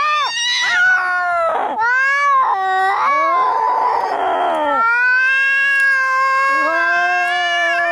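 Angry cats yowling and caterwauling, as in a cat fight: drawn-out wavering wails that bend up and down in pitch, a harsh rasping scream a little past the middle, then one long held yowl that falls in pitch near the end.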